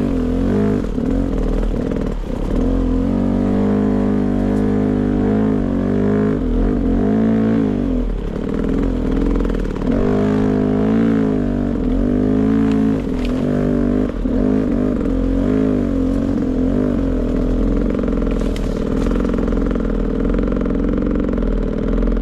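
Beta 300 RR two-stroke dirt bike engine running under throttle, its pitch rising and falling again and again as the rider works the throttle.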